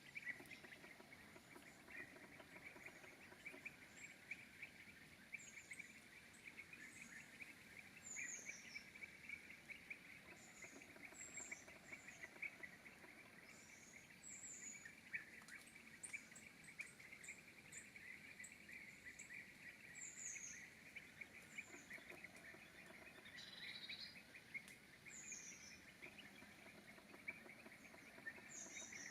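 Faint woodland ambience: a steady, fast insect chirring, with short high, thin, falling bird calls every second or two.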